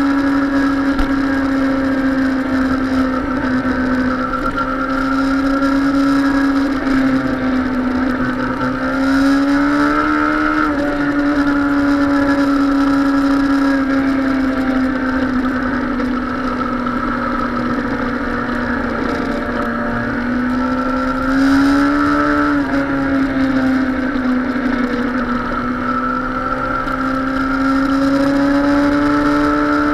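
Suzuki sport motorcycle's engine running under way with wind noise, its pitch climbing twice as the throttle opens, about a third of the way in and again about two-thirds in, and dropping back suddenly each time.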